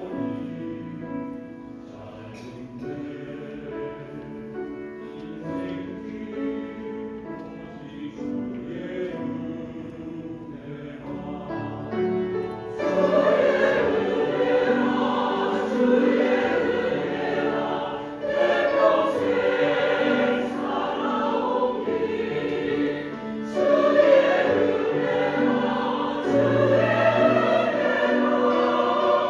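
A choir singing a Christian praise song. It becomes louder and fuller about halfway through.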